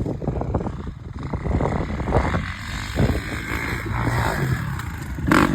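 Dirt bike engine revving as the rider runs at a jump ramp and goes over it.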